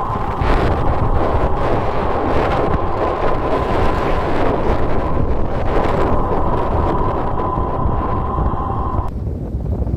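Wind buffeting the microphone at the sea, loud and continuous. A steady whine runs underneath and drops out briefly near the end.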